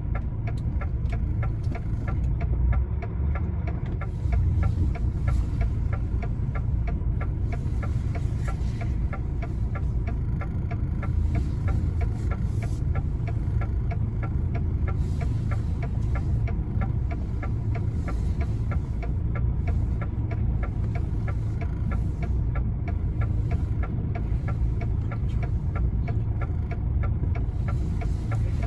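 Lorry's diesel engine heard from inside the cab, running at low revs with a steady throb and a fast, even ticking, during low-speed manoeuvring in snow.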